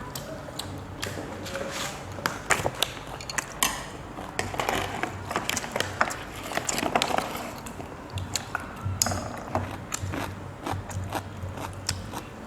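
Close-up eating sounds: chewing and crunching of rice-paper rolls filled with crunchy pig's ear, with many irregular sharp clicks.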